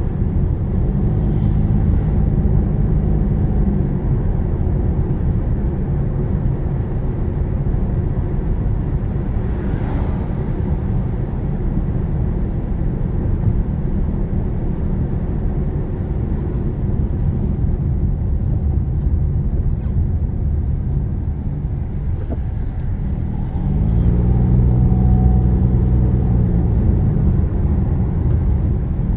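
Car engine and road rumble heard from inside the cabin while driving. The engine note swells and grows louder twice under acceleration: for a few seconds starting about a second in, and again near the end.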